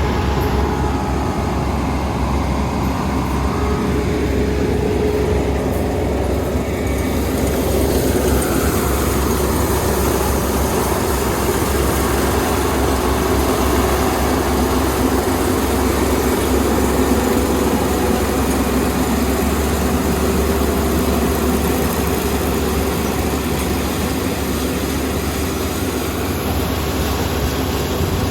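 Kubota ER470 combine harvester running steadily at working speed, with a constant deep engine drone and a steady mechanical hum.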